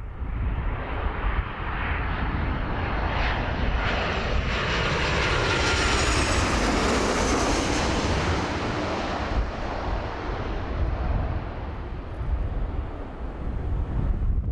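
Airliner passing low overhead on its landing approach: engine noise swells to a peak near the middle, its pitch falling as it goes by, then fades away.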